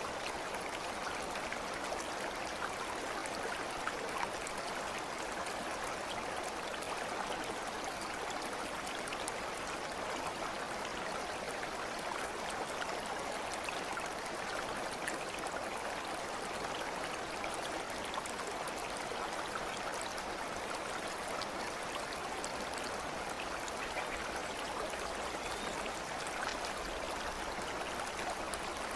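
Water flowing in a stream, a steady rushing sound that does not change.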